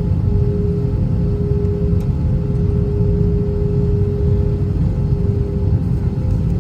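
Airbus A321 cabin noise with its IAE V2500 engines running on the ground: a steady low rumble with a steady hum held under it.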